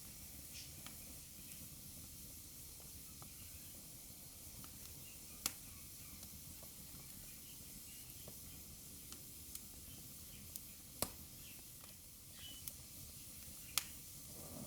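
Wood fire burning in a fireplace: a faint steady hiss with scattered small crackles and three sharp pops, about a third of the way in, past the middle, and near the end.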